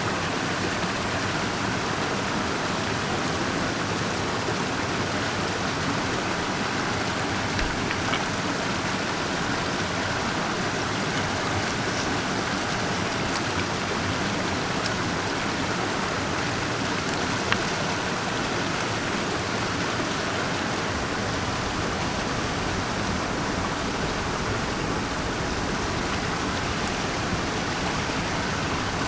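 Mountain stream rushing steadily, with a brief small tap about two-thirds of the way through.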